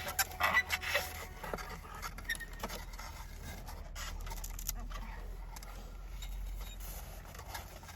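Scraping and light knocks of a pine log and hatchet being handled and set up for splitting kindling, the loudest cluster in the first second, then a few scattered small ticks.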